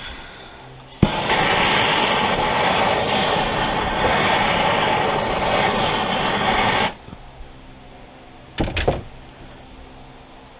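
MAP gas torch clicking alight and burning with a steady hiss for about six seconds, heating the chaincase bearing bore, then cutting off suddenly. A brief knock follows about two seconds later.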